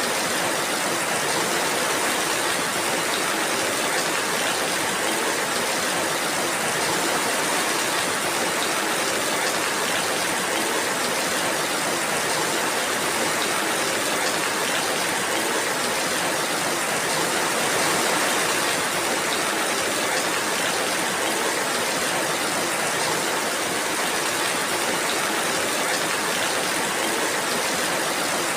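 Steady rain: an even, unbroken hiss with no single drops, thunder or other events standing out.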